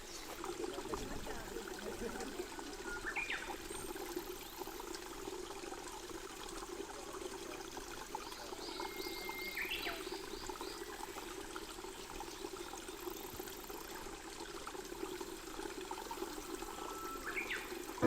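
Steady trickle of flowing water, with a songbird calling three times, each call a held whistle that ends in a quick upward flourish.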